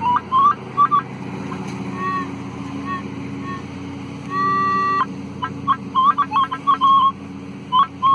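Minelab CTX-3030 metal detector giving its high tone on a deep target: short broken beeps as the coil sweeps back and forth, then one clean held tone for a little over half a second about four seconds in. A lawnmower engine runs steadily underneath.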